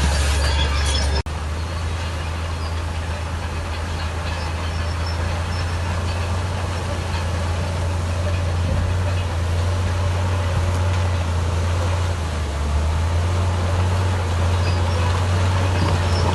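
Heavy diesel engine of a bulldozer or dump truck running steadily with a deep, continuous drone. There is a brief dropout about a second in.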